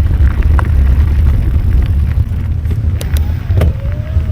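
Heavy low rumble of wind buffeting the microphone of a moving ride camera, with scattered clicks and rattles from the trail; about three and a half seconds in a thin steady whine starts and carries on.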